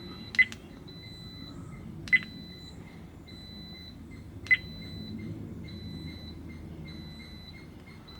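Redtiger dashcam giving three short, high-pitched button-press beeps as its menu is stepped through, about two seconds apart.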